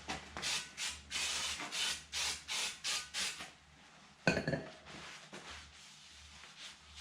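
Quick rubbing strokes on window glass, about three a second, as leftover window tint and its glue residue are rubbed off, followed by a single sharp knock about four seconds in.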